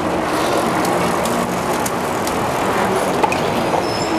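Steady rush of wind and tyre noise from a bicycle ridden fast through city traffic, with the hum of nearby motor vehicles and a few small clicks.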